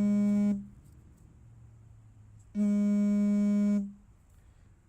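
A steady, single-pitched buzzer-like tone sounding twice, each time for over a second, about two seconds apart.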